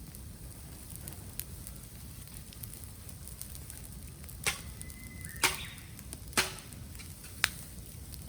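Bamboo burning in a bonfire, crackling steadily, with four sharp pops in the second half as the heated stalks burst. Between the first two pops comes a brief thin whistle.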